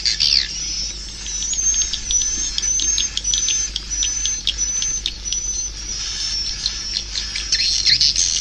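Recorded swiftlet calls of the kind played to lure swiftlets into a swiftlet house. Dense twittering and clicking at the start and end, and in between a run of short high chirps about two a second, mixed with clicks.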